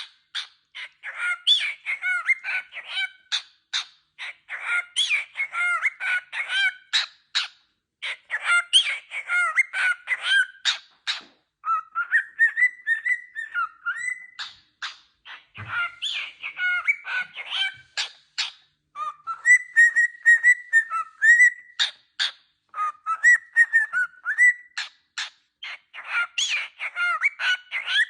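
A bird calling almost without pause: quick runs of chirps and clicks mixed with whistled notes that slide up and down, broken by short gaps.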